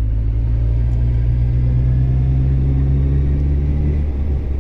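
Motorcycle engine running at a steady low note. Part of the note cuts off about four seconds in.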